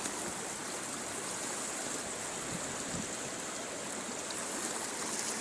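Steady rushing of the Kuban River running high in flood.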